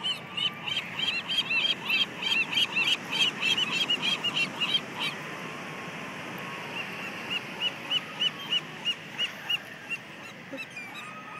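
A flock of gulls calling: many short, high cries in quick succession for about the first five seconds, thinning out to single cries a little apart after that. They are crowding in for food being thrown to them.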